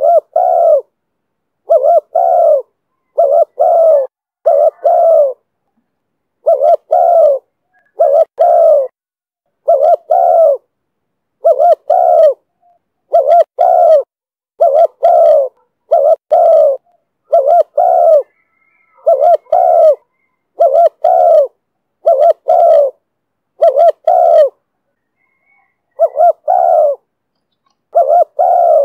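Spotted dove cooing in the voice that Vietnamese dove keepers call 'thổ thúc bổi': short coos in pairs and triples, a group about every one to two seconds. The series pauses briefly about five seconds in and again near the end.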